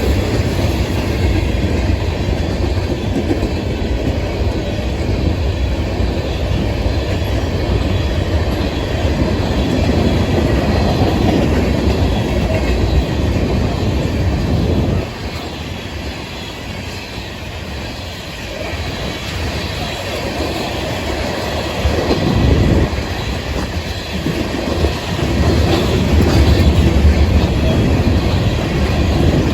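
Freight cars of a train rolling past: a steady rumble of steel wheels on rail with clickety-clack over the joints. The sound drops suddenly about halfway through and builds again near the end.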